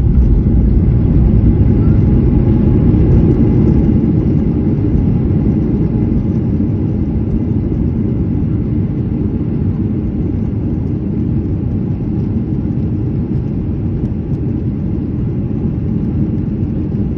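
Steady low rumble of a Boeing 737-800's jet engines and airflow heard inside the passenger cabin, easing slightly after about four seconds.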